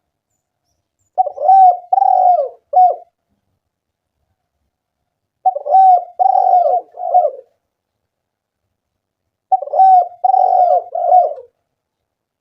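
Spotted dove cooing: three phrases a few seconds apart, each of three low coos.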